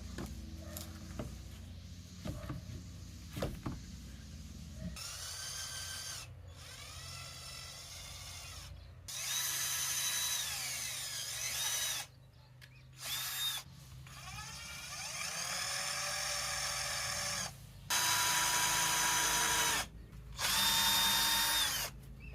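Power drill running in about seven bursts, each whine speeding up, holding steady and then slowing down, with short pauses between them; a few light knocks come before the first burst.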